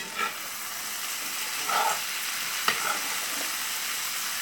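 Breakfast hash of diced potatoes and sausage sizzling in a hot pan, the sizzle swelling during the first second as the rinsed spinach goes in, with a few sharp clicks.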